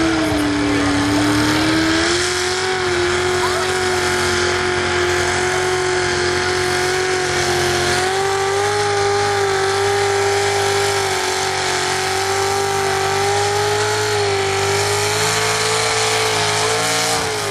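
A pulling truck's engine held at full throttle during a pull, its high, steady note creeping slightly upward. Near the end the revs start to fall away as the run ends.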